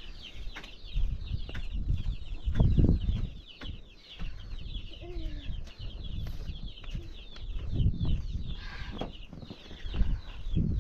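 Birds chirping in a steady, fast chatter of short high calls, over low rumbling that swells and fades, loudest about three seconds in.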